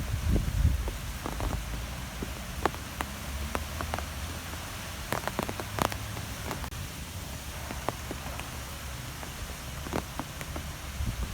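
Wind in nature: a steady low rumble that swells near the start and end, with scattered light ticks and taps throughout.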